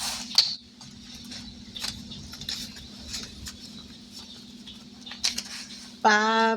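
Paper bills and an envelope rustling and crinkling in short scattered bursts as cash is tucked in, over a steady low hum.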